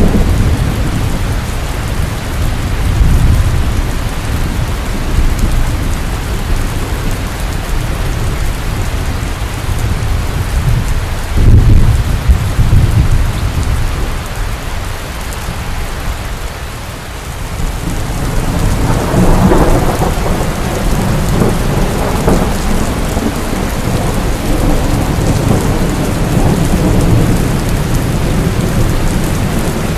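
Heavy rain falling steadily with rolling thunder: a loud thunderclap about a third of the way in, and a long rumble that swells past the halfway point and rolls on.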